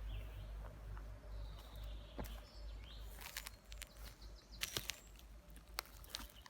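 Quiet outdoor ambience with a low wind rumble on the microphone, faint bird chirps, and a few sharp clicks or taps between about three and six seconds in.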